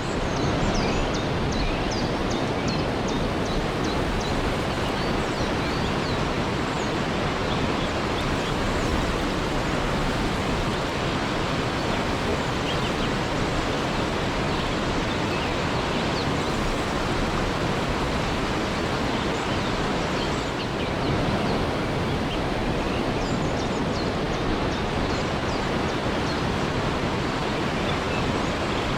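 Waterfall rushing steadily, with a few brief high chirps now and then.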